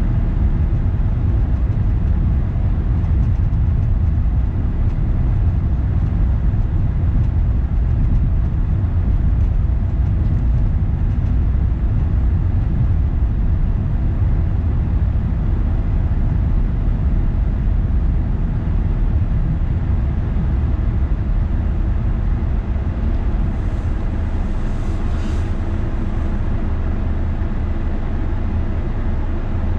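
Car driving steadily: a constant low rumble of road and engine noise, with a brief hiss a few seconds before the end.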